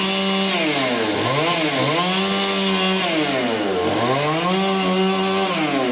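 Two-stroke chainsaw running at high speed while cutting into a log, its engine pitch dropping sharply under load several times and picking back up.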